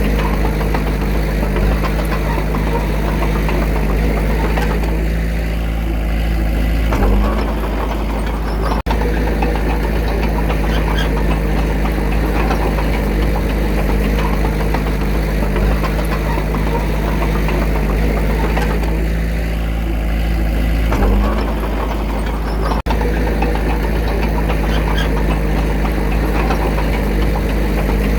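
Small bulldozer's diesel engine running steadily with a heavy low drone. Its note shifts briefly about seven seconds in and again about twenty-one seconds in, in a repeating work cycle.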